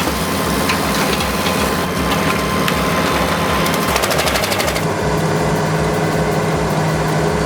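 Heavy machinery running steadily under load, with a low rhythmic engine pulse. About five seconds in, the sound shifts to a lower, steadier drone.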